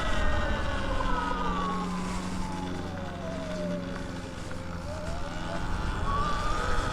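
Sur-Ron Light Bee X electric dirt bike's motor whine, several tones together, falling steadily in pitch over about five seconds as the bike slows, then rising again near the end as it picks up speed. A low rush of wind and road noise lies under it.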